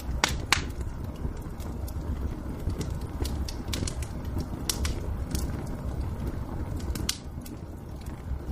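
Wood fire crackling in a fireplace: irregular sharp pops and snaps, two louder ones close together just under a second in, over a steady low rumble.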